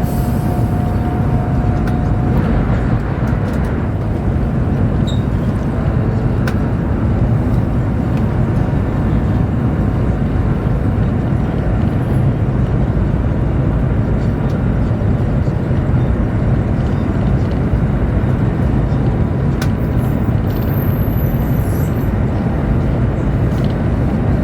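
Steady rumble and rush of a Chinese high-speed train running at speed, heard inside the passenger cabin.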